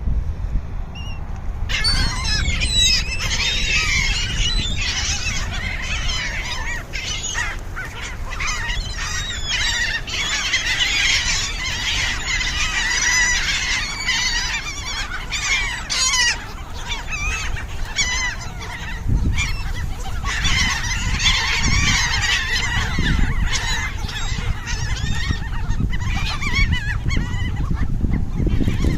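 A large flock of geese honking and calling over one another as they crowd in for thrown bread, the din starting about two seconds in.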